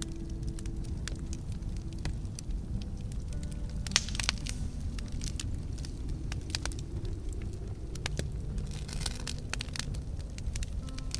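Wood campfire burning: a steady low rumble with scattered crackles and pops, a sharp pop about four seconds in and a quick run of crackling near the end.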